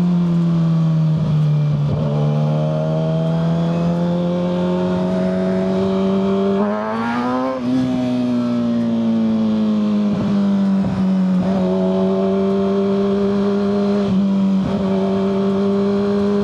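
Kawasaki ZX-6R 636 inline-four through a Yoshimura full exhaust, heard from the rider's seat while cruising: a steady engine note that sags slightly in the first couple of seconds, rises in a quick burst of revs about seven seconds in with a brief dip, then holds steady again, with wind rushing over the microphone.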